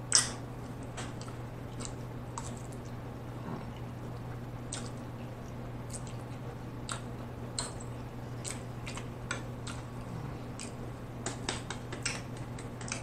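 Close-miked chewing of a mouthful of spaghetti: scattered wet mouth clicks and smacks, the sharpest right at the start and a quick run of them near the end, over a steady low hum.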